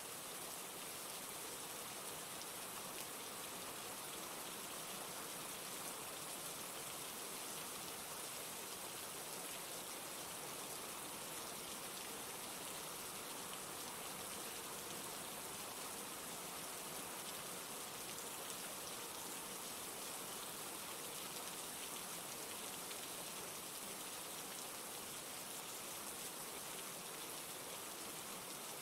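Steady rain falling, a dense, even hiss of many drops with no change in strength.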